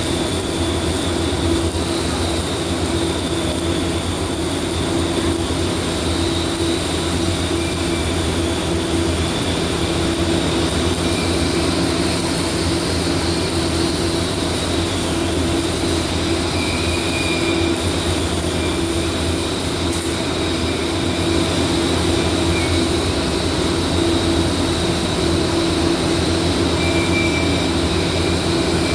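Steady mechanical drone and hiss with a low hum and a faint wavering high whine.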